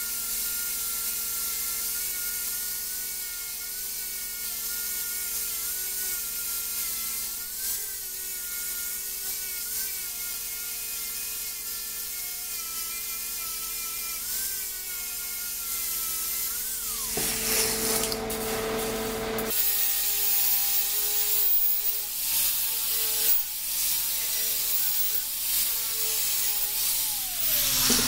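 Electric grinder working steel: a steady high-pitched whine over a gritty hiss, wavering as the work is pressed against it. The whine falls away about 17 seconds in, and a lower-pitched whine takes over about two seconds later.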